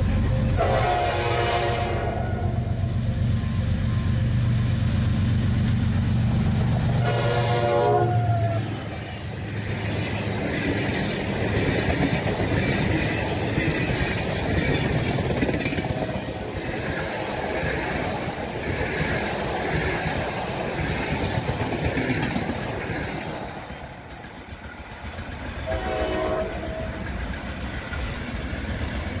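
Diesel locomotive hauling a sleeper train passes close by and sounds its horn twice on the approach, over a heavy engine rumble. The coaches then roll past with a steady clickety-clack of wheels on the rails, and a fainter third horn blast sounds near the end as the train draws away.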